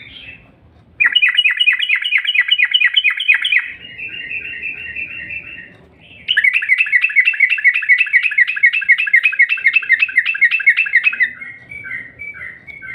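Yellow-vented bulbul (trucuk) song used as a lure recording: two long, fast trills of evenly repeated chirping notes, the second longer than the first, each trailing off into slower, softer notes.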